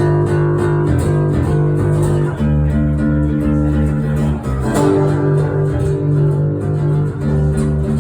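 Live acoustic band kicking into a song's instrumental intro, led by guitar with bass underneath. It comes in all at once with held chords that change every second or so.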